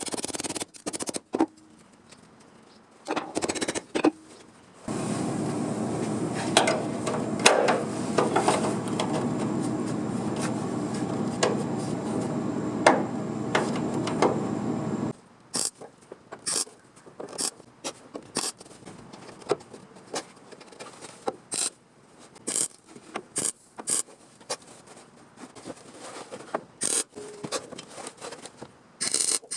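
Workshop tool sounds on sheet-metal bodywork: a tool runs steadily for about ten seconds, then stops suddenly, followed by scattered short scrapes and clicks.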